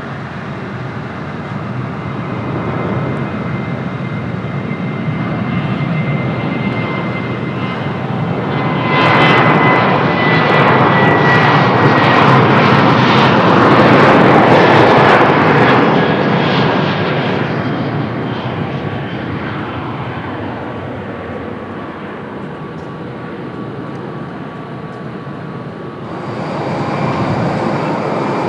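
Jet airliner's engines passing close by: a steady rush that swells to its loudest in the middle, with a high whine sliding slowly down in pitch, then fades. The rush rises again near the end.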